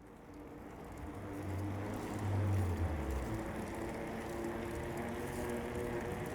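Outdoor sound fading in to a low rumble, loudest about two to three seconds in, under a steady droning mechanical hum.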